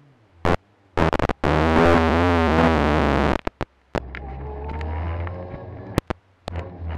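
Rally car cabin: sharp knocks close to the camera, then about two seconds of loud, overloaded rumbling, then a low steady engine hum with scattered knocks as the car idles.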